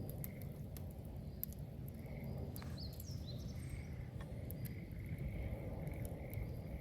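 Wood bonfire burning, with scattered sharp crackles and pops over a low, steady rumble of the flames.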